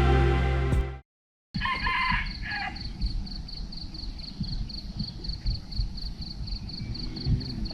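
Background music ends about a second in; after a short cut, a rooster crows briefly in outdoor ambience, over a high chirp pulsing about four times a second.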